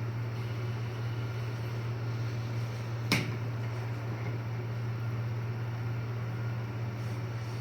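Steady low hum of an air hockey table's blower. A single sharp knock comes about three seconds in.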